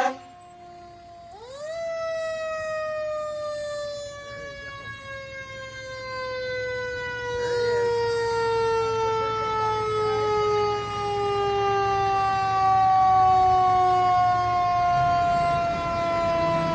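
Fire engine's siren winding up sharply and then slowly winding down in one long falling wail, the slow coast-down of a mechanical siren. The truck's engine idles underneath.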